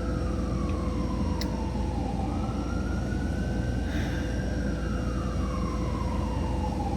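An emergency vehicle siren wailing, its pitch rising and falling slowly, about once every four seconds, over a steady low rumble.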